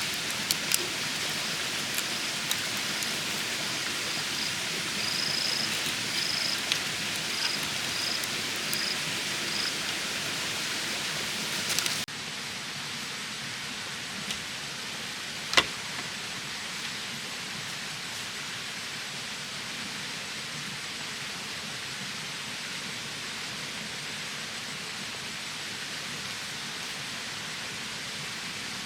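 Steady hiss of rain falling, with a few sharp knocks and clicks, one louder one about two-thirds of the way through. A short run of high chirps sounds in the first third. The rain drops to a quieter level suddenly, a little under halfway.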